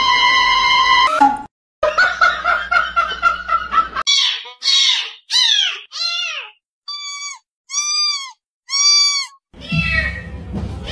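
A string of animal calls in quick succession: several falling cries, then three short arched calls about a second apart, then a rougher cry near the end. It follows about a second of steady held tones and a brief break.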